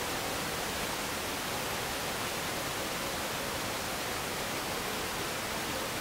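Steady hiss of static with a faint steady hum in the middle range, unchanging throughout.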